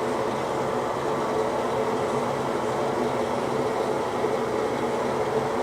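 A steady mechanical hum, like a small motor or fan running, with a low buzzing tone that stays level throughout.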